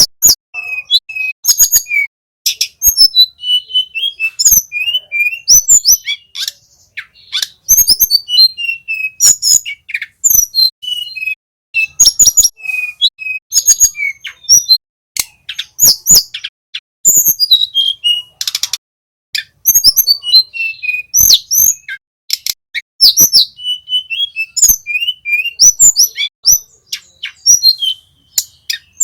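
Small flycatcher singing a rapid, high-pitched run of chirps, whistles and short trills, dense and nearly unbroken, mixed with frequent sharp clicks.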